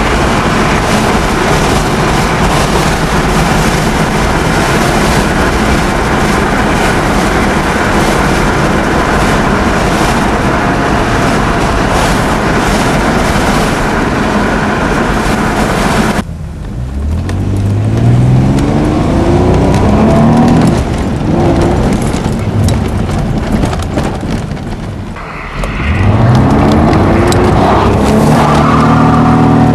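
Chrysler Sebring's Mitsubishi 2.5 L 24-valve V6 under hard acceleration, its note rising through the revs, dropping at each upshift and rising again. Before that, a steady loud rush of driving at speed that cuts off abruptly about 16 s in; a second acceleration run starts about 25 s in.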